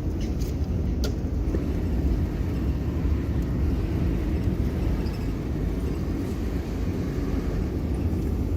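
Steady low rumble of a car driving along a road, with a couple of faint clicks about a second in.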